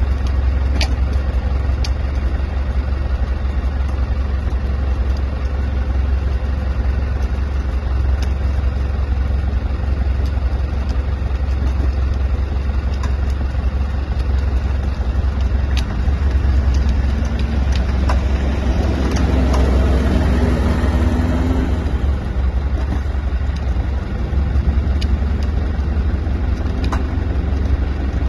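A vehicle engine running steadily with a deep rumble, with scattered sharp clicks and a louder swell about two-thirds of the way through.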